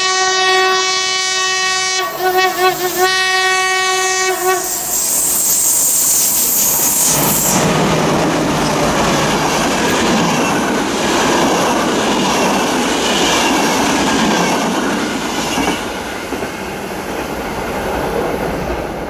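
Train horn sounding two long blasts as a passenger train approaches, the second blast wavering partway through. The train then passes at speed with continuous wheel-on-rail rushing and clatter, fading near the end.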